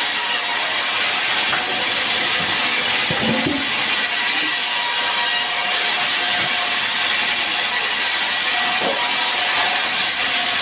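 Sawmill saw cutting sengon wood: a steady, loud cutting noise that holds at one level throughout.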